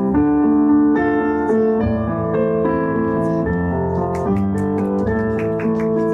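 Piano music playing, a flowing melody of held notes with quicker notes entering about four seconds in.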